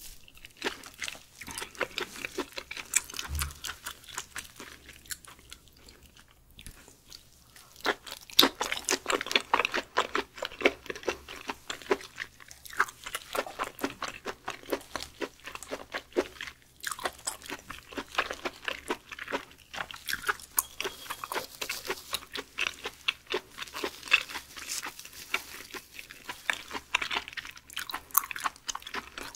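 Close-miked chewing of raw beef skirt meat: sticky, crackly bites and chewing, quieter at first and louder from about eight seconds in.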